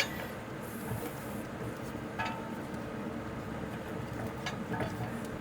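A few faint metallic clicks and clinks, one with a short ring about two seconds in and two more near the end, over a steady background hum: brake parts and a hanging hook being handled during a caliper job.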